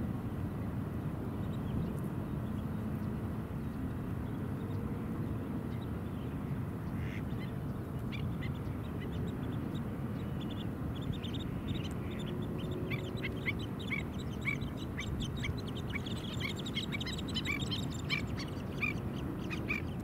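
Birds calling in a quick series of short, repeated notes. The calls start about seven seconds in and grow busier toward the end, over a steady low rumble.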